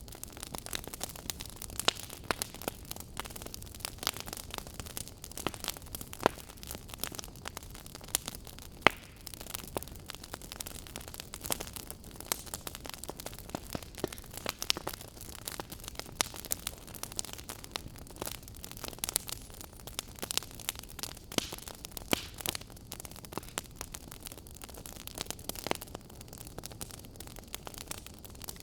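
Fireplace fire crackling: irregular sharp pops and snaps over a soft steady hiss.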